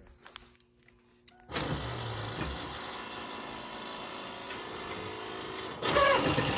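The 2002 Pontiac Firebird's 3.8-litre V6 catches about a second and a half in and settles into a steady idle.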